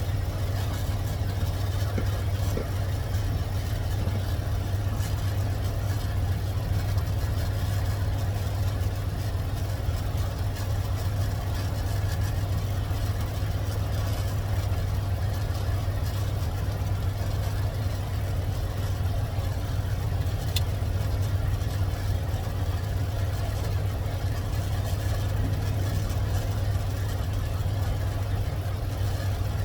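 A 1984 tow truck's carbureted engine idling steadily after a hard start.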